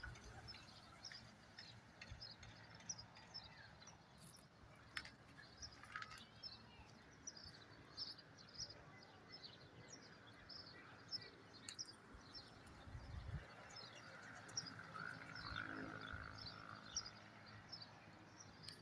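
Faint, irregular chirping of small birds, a few short high chirps a second, under a quiet outdoor background.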